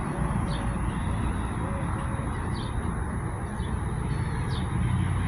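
Small birds chirping at intervals, faint short chirps over a steady low hum of city traffic.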